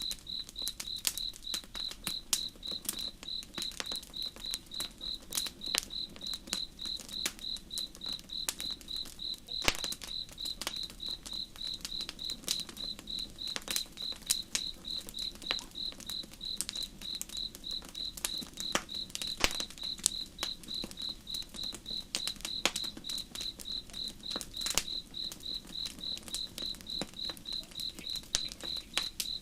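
Campfire crackling with irregular sharp pops and snaps, over a cricket chirping in a steady, even, high-pitched pulse, with a faint low rush of river water beneath.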